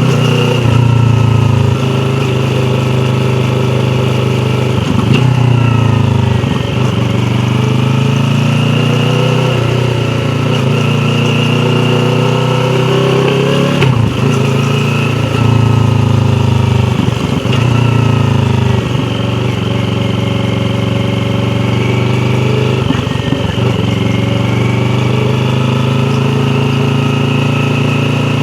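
Yamaha YZF-R3's parallel-twin engine running at low revs while riding, its note rising and falling slowly with the throttle. The note dips briefly several times.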